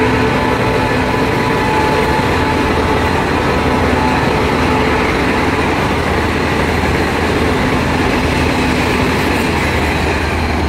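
Passenger train coaches rushing past a station platform at speed, a steady loud rumble and roar of wheels on rail. A few steady tones sound over the rumble and fade out near the end.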